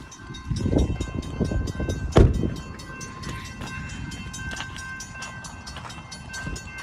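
Railroad crossing bell ringing in rapid, even strikes as an Amtrak train approaches the crossing. A low rumble and a loud thump come in the first couple of seconds.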